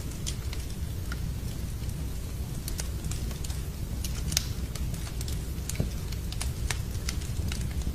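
Wood fire in a fireplace crackling, with irregular sharp pops and snaps, over a steady low rumble of rain.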